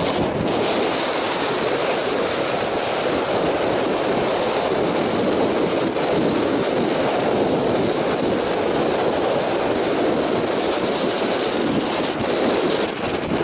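Strong blizzard wind blowing across the microphone: a steady, loud rushing noise with no let-up.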